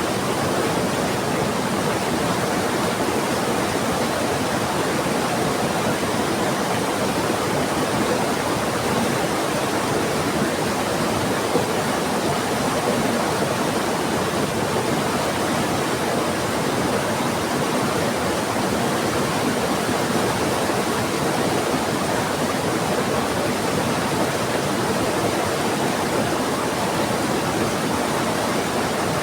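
Steady rushing noise of a fast-flowing river together with heavy rain, unchanging in level throughout.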